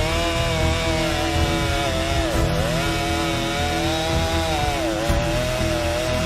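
Stihl MS 261 two-stroke chainsaw at full throttle, cutting through a pine trunk. The engine note sags briefly twice under the load and picks back up: the saw is bogging down a little in the cut.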